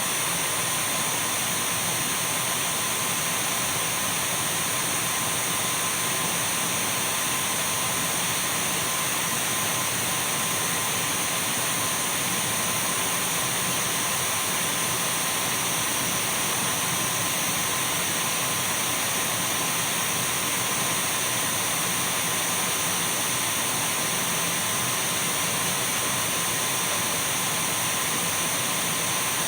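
Dyson V12 cordless stick vacuum cleaner running continuously: an even airy rush with a thin steady whine from the motor, unchanging throughout.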